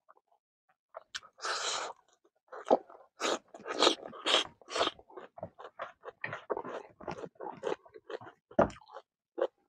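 Close-up chewing of a handful of smoked pork, kidney beans and raw leafy greens: irregular crunches and wet clicks of the mouth, with a brief hiss about a second and a half in.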